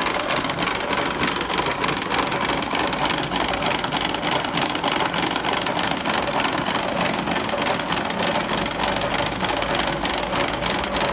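Electric cigarette-making machine running, its all-mechanical drive giving a steady, rapid clatter of evenly repeating clicks.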